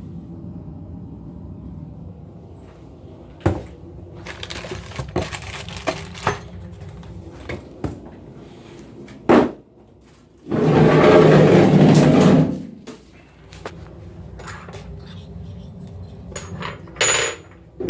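Faucet parts and mounting hardware being handled: scattered clicks and knocks of small metal and plastic pieces, with a loud scraping or rustling noise lasting about two seconds just past the middle.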